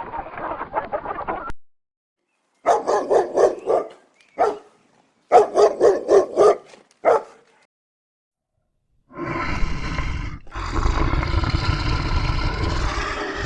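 An animal's barking calls in two quick runs of about five short barks each, with a few single barks between. From about nine seconds in, a long rough, rasping sound follows, heavy in the low end.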